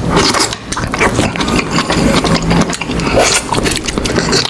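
Close-miked chewing and wet mouth sounds of people eating prawns and soup, a dense run of irregular clicks and crunches over a low steady hum.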